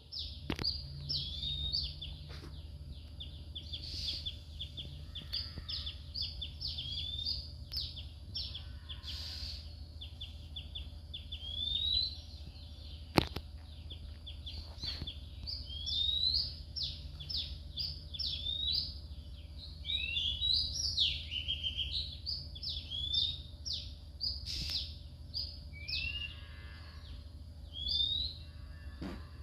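Small birds chirping continuously in rapid, high, short calls with quick upward sweeps, over a steady low hum, with one sharp click about 13 seconds in.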